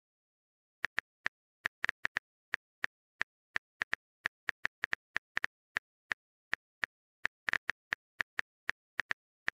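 Smartphone keyboard tap clicks, a quick irregular run of about three or four sharp clicks a second, as a text message is typed out.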